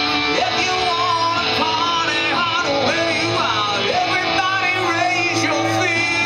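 Live rock-and-roll band playing, with guitar and a melody line that slides and bends in pitch over a steady bass.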